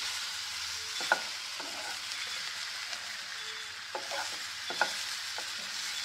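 Squid rings and onions sizzling in oil in a nonstick frying pan with a steady hiss, while a wooden spatula stirs them and scrapes and knocks against the pan a few times.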